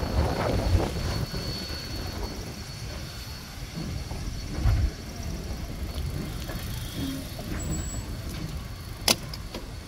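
A heritage passenger train, with a steam locomotive at its head, rolling slowly away, heard as a low rumble mixed with wind on the microphone. A single sharp click comes about nine seconds in.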